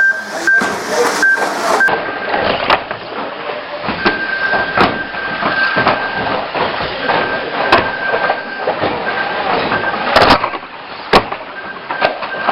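Banger race cars running and colliding: a continuous mechanical din with repeated sharp knocks and clacks of impacts, the loudest cluster about ten seconds in, and a high steady tone that switches on and off throughout.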